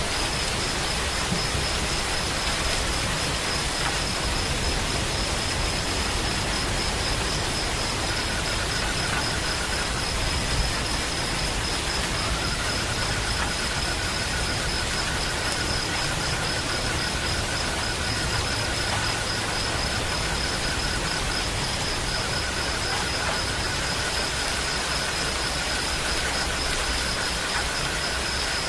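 Steady rain, an even hiss with no breaks. Over it runs a continuous high trill, with a lower trill that starts and stops a few times.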